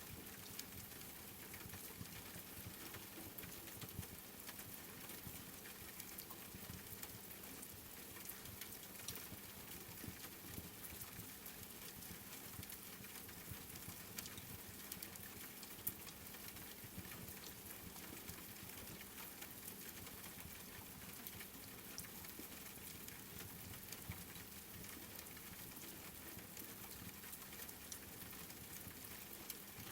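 Steady rain hissing, mixed with the small crackles and pops of a wood fire in a fireplace; one pop a little past the middle stands out above the rest.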